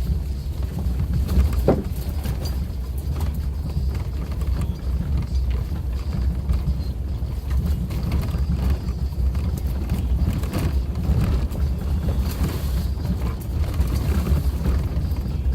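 Suzuki Jimny driving on a rough forest road: a steady low drone of engine and tyres, broken by frequent short knocks and rattles from stones and the bumpy track, the sharpest about two seconds in.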